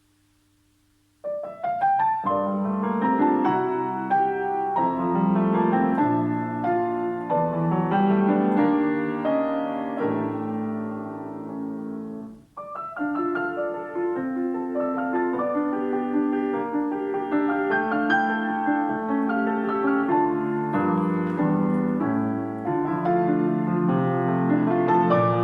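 Piano duet playing a flowing piece, many notes sounding at once; it starts about a second in and briefly falls away midway before carrying on.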